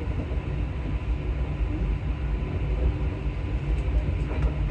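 Alstom MP14 rubber-tyred metro train running through a tunnel, a steady low rumble with a faint motor whine.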